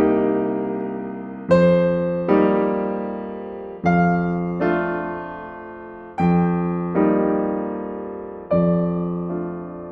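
Slow, gentle solo piano music: soft chords struck about once a second or so, each left to ring and fade before the next.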